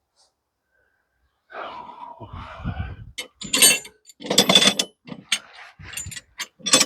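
Work noises on a portable bandsaw mill's bed: a short scraping rustle about a second and a half in, then a string of sharp metallic clanks and knocks, some ringing, as parts of the mill are handled and set.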